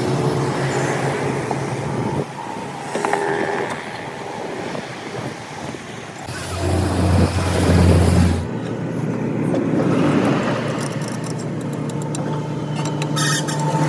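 Vehicle engines running, with a louder, deeper engine hum in the middle that cuts off suddenly, and a run of sharp clicks or taps near the end.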